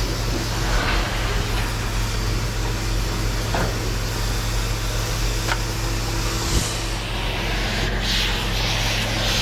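Pickup truck on the move, with a steady low engine hum under road and wind noise and a few faint clicks and rattles.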